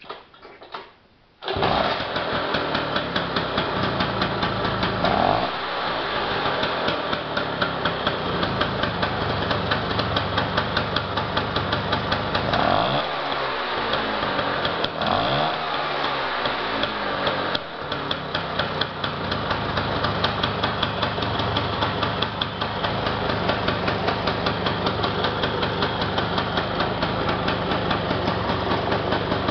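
Freshly rebuilt Vespa PX 150's single-cylinder two-stroke engine catching after a few clicks, about a second and a half in. It takes a few throttle blips, the pitch rising and falling, then idles steadily with a fast, even beat.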